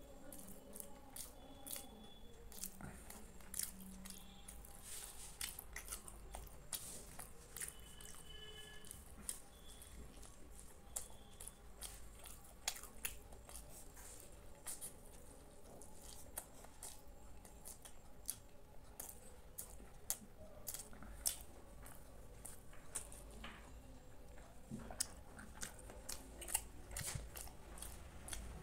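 Close-up chewing of malpua, a soft, syrup-soaked fried pancake: many irregular wet mouth clicks and smacks over a faint low hum.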